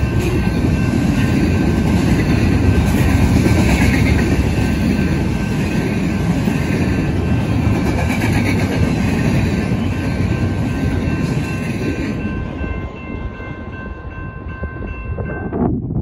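Double-stack intermodal freight train's well cars rolling past: steady rolling noise of steel wheels on the rails, with a few faint steady high ringing tones over it. It eases off over the last few seconds.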